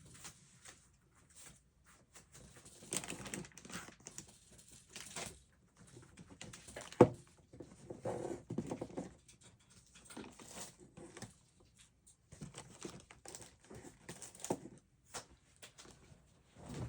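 Rustling and light tapping of paper and stationery being handled on a desk, with a single sharp click about seven seconds in.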